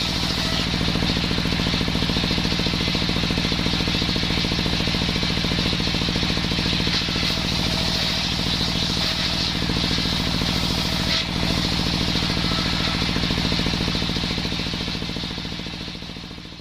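The engine of a homemade circular saw rig runs steadily with an even, rapid pulsing beat. It fades out near the end.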